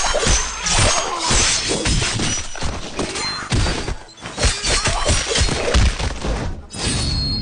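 A dense run of crashes and thuds with shattering sounds, many impacts following one another quickly, with brief lulls about four seconds in and near the end.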